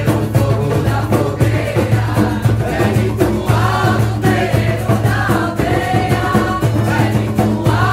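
A song sung by several voices over a steady percussion beat: a Yawanawá chant-song.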